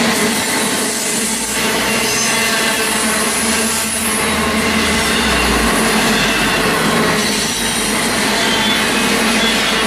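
Long intermodal freight train's cars rolling past steadily, their wheels squealing with several high, held tones over the rumble.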